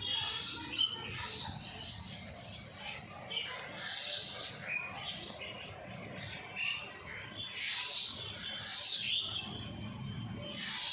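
A bird calling: short, high chirps that fall in pitch, about six of them at irregular intervals, over a steady low background hum.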